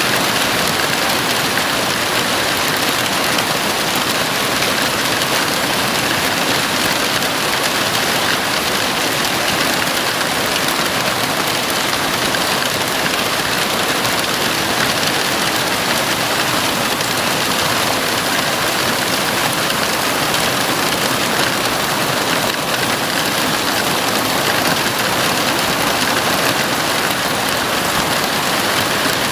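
Heavy rain falling on a house roof: a steady, even hiss that does not change.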